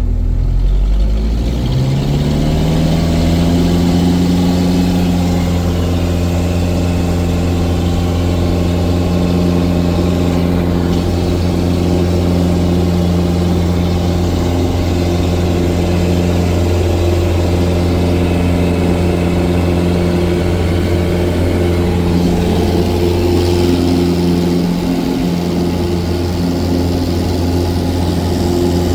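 Cessna 177 Cardinal's piston engine as the throttle is opened: its pitch climbs over the first couple of seconds, then it runs steadily at high power, as for the takeoff roll and climb-out.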